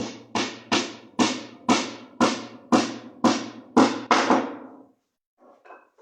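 A run of about ten sharp, ringing percussive strikes, roughly two a second, each dying away quickly, over a steady low hum; they stop about five seconds in.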